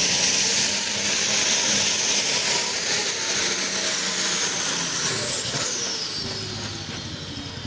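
Pulling vehicle's engine running loud with a steady high-pitched whine, then throttled back about five seconds in, the whine gliding down as it spins down.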